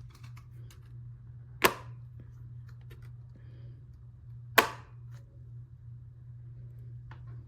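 Two sharp clicks or knocks about three seconds apart, with a few faint ticks, over a low steady hum.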